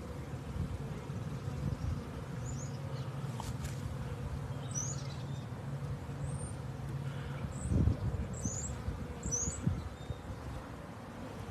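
Honeybee swarm buzzing as a steady low hum, which thins near the end. A small bird chirps short high notes about half a dozen times over it, and a loud low thump comes about eight seconds in.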